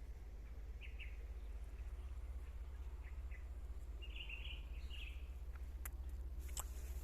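Wild birds calling in short chirps scattered through, with a brief burst of calls about two-thirds of the way in, and a few sharp clicks near the end.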